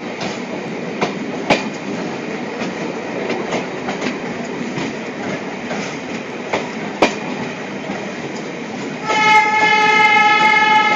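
Indian Railways diesel passenger train running, its wheels clicking sharply over rail joints a few times, then a diesel locomotive horn sounding one long steady blast from about nine seconds in.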